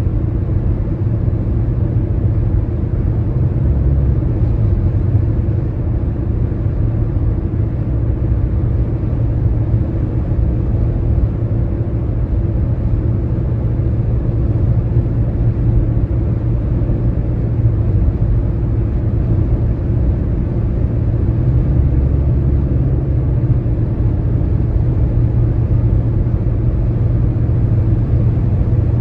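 Car travelling at highway speed: a steady low rumble of tyres and road, with no clear breaks or rhythm.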